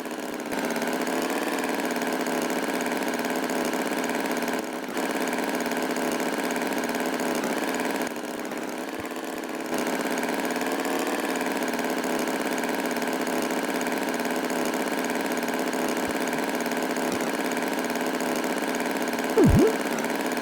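Tractor engine idling steadily, its pitch wavering slightly, with a few brief dips in level. About a second before the end comes a short, loud tone that sweeps up and back down.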